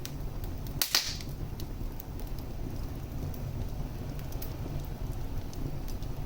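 Wood fire burning in a fireplace: a steady low rumble of flames with scattered small crackles, and one loud sharp pop about a second in.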